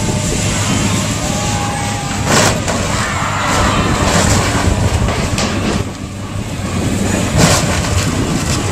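Heavy demolition machinery engine running steadily as a building is torn down, with two sharp crashes of breaking material, one about two and a half seconds in and one near the end.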